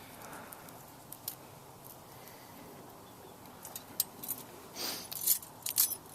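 Faint background for a few seconds, then a handful of sharp clicks and a brief rustle near the end as a plastic bird feeder is handled.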